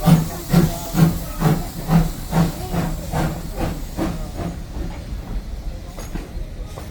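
Steam locomotive chuffing at about two exhaust beats a second over a steady hiss of steam, the beats growing fainter and dying away after about four seconds as the engine draws off.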